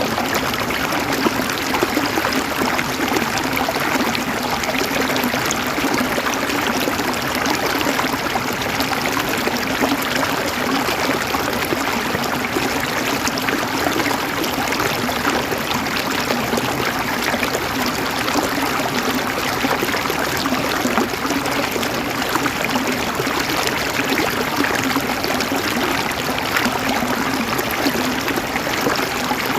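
River water flowing and gurgling steadily over stones, a continuous splashing rush with no breaks.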